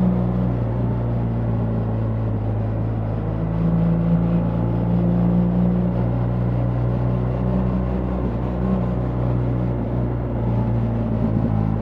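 BMW R 1300 GS boxer-twin engine running steadily while the motorcycle is ridden, heard from the bike itself, its note holding nearly level with only slight rises and falls.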